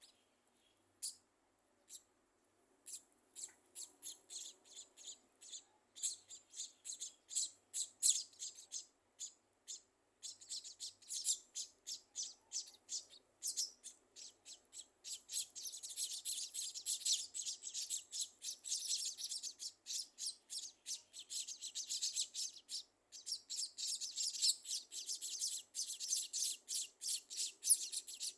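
Scaly-breasted munias chirping: short, high, rapid chirps, a few single ones at first, building to a dense, almost unbroken run of chirps from about halfway.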